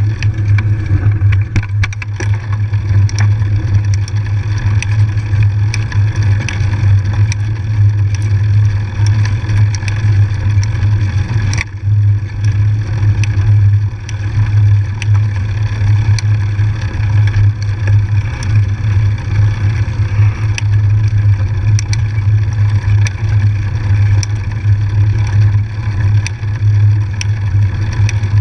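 Steady low rumble during a bike ride on a trail, with many small ticks and rattles scattered through it.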